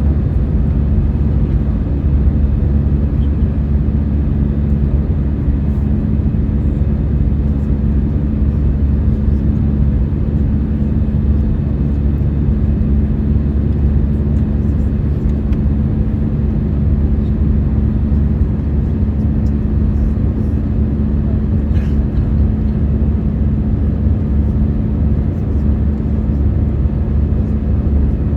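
Steady drone inside an Airbus A319 cabin in flight: engine and airflow noise with a low hum, unchanging throughout.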